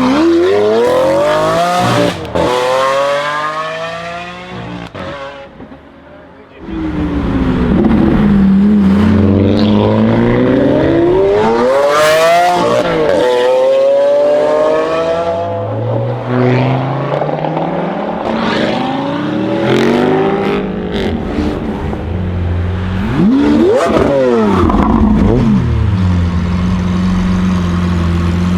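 Lamborghini Aventador V12 with a Capristo aftermarket exhaust being revved repeatedly, pitch climbing and falling with each blip, with a sharp crack about two seconds in. The sound fades for a couple of seconds, comes back with more hard revs, then settles into a steady idle near the end.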